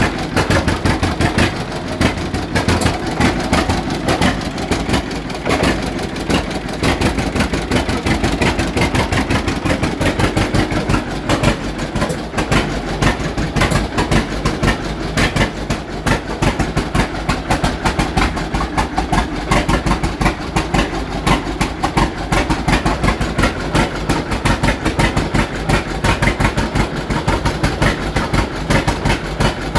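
John Deere Model G tractor's big two-cylinder engine running at a steady idle, its exhaust popping in an even rhythmic beat.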